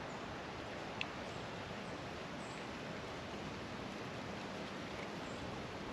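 Steady outdoor background noise, a soft even hiss, with a single small click about a second in.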